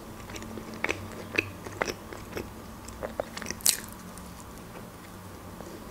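Close-miked eating of an open sandwich of brown bread spread with pâté: irregular wet mouth clicks and small crunches of chewing and biting, with a louder crackly bite a little after halfway.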